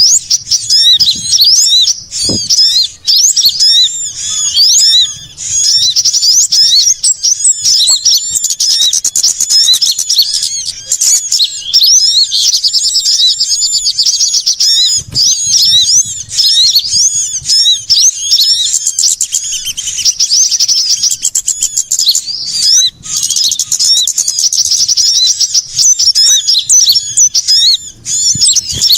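A dense, loud chorus of many small songbirds chirping and twittering at once, quick high-pitched calls overlapping without a break: a bird-lure recording of noisy small-bird calls, including sunbirds, used to draw small birds in.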